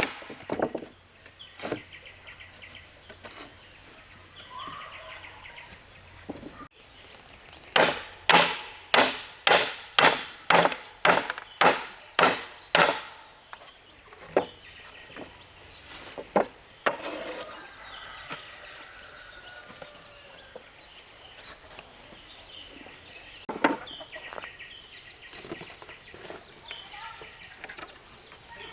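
A tool striking wood: a quick run of about ten sharp blows, roughly two a second, then a few single blows spaced several seconds apart.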